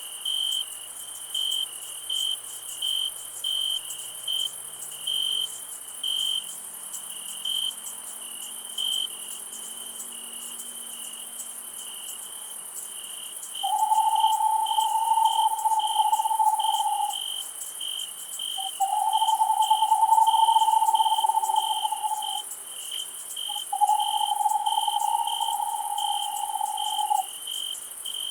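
Crickets chirping steadily at about two chirps a second over a constant high insect hiss. From about halfway, three long, steady mid-pitched tones of about three and a half seconds each are the loudest sound.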